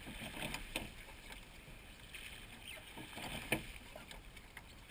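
Seine boat being rowed: oars dipping and pulling through the water, with a few short stroke sounds, the sharpest about three and a half seconds in.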